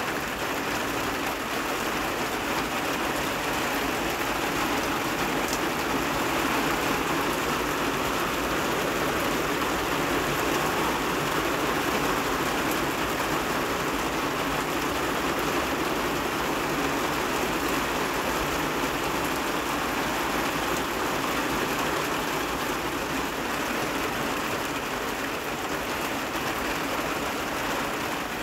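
Heavy rain pouring steadily onto a flat rooftop and the surrounding trees, an even hiss with no breaks or separate events.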